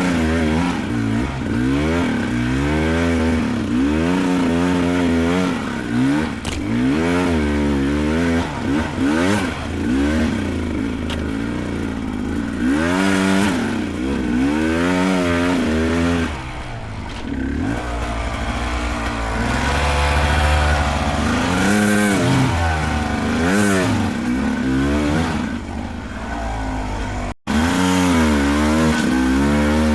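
Beta 300 Race two-stroke dirt bike engine worked hard on a rough trail, its revs rising and falling about once a second as the throttle is opened and closed, with a short spell of lower, steadier running past the middle.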